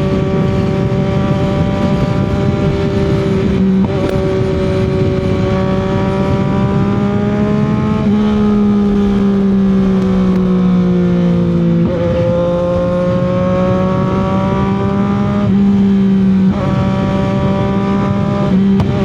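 CFMOTO 675 motorcycle's 675 cc inline three-cylinder engine and exhaust at highway cruising speed, with a steady note over wind and road noise. Its pitch sags slowly for a few seconds midway, then steps back up, and the note breaks briefly a few times.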